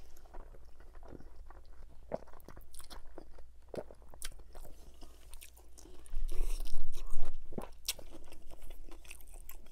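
Close-miked mouth sounds of a man chewing a mouthful of spaghetti bolognese: wet, quick clicks and smacks. Past the middle comes a louder stretch of crunching as he bites into a pickled pepperoncini.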